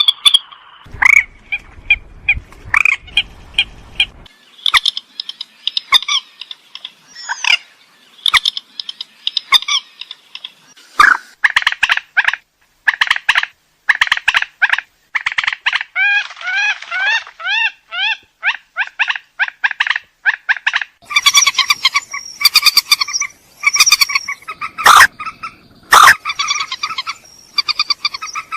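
Purple swamphen calling: a rapid, continuous series of short, loud calls that repeat in runs and change pattern every few seconds.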